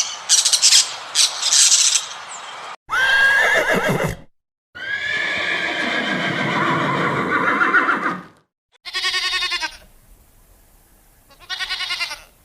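A string of short animal calls cut together, separated by abrupt silences, ending with two short quavering calls.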